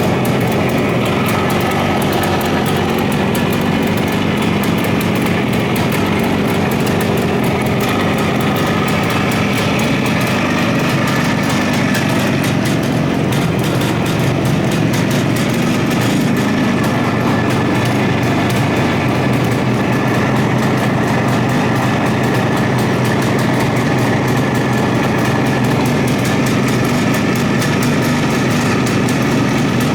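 Suzuki T500 (GT500) air-cooled two-stroke parallel-twin engine running steadily.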